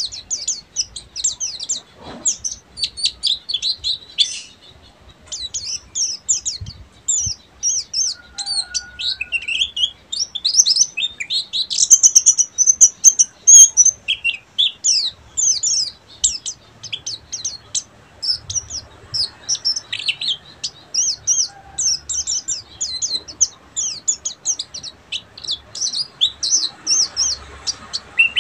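White-eye (pleci buxtoni) singing a long run of rapid, high twittering chirps without a break, louder near the middle.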